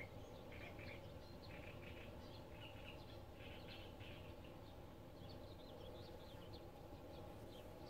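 Small birds chirping in short repeated calls over a faint steady low rumble of background noise.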